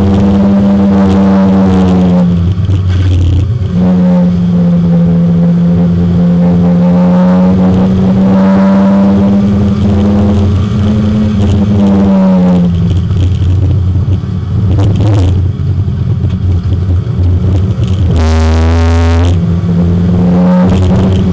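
Porsche 924 race car's four-cylinder engine heard from inside the car, running hard at high revs with a steady drone whose pitch climbs slowly. It drops away briefly about two seconds in, again for a few seconds past the middle, and once more near the end, as the driver lifts off and changes gear.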